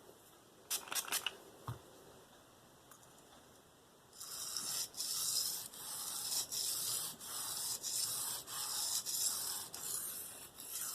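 The K390 steel blade of a Spyderco Endura 4 being stroked freehand across a Venev diamond sharpening stone: a few light clicks of handling, then from about four seconds in a steady rasping scrape in rhythmic strokes, about two a second.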